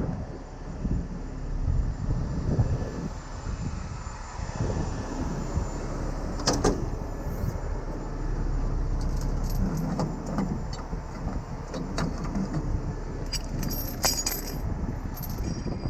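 Heavy diesel truck engine idling steadily, with scattered sharp metallic clinks and clanks of chain and rigging hardware being handled while a winch-out is set up.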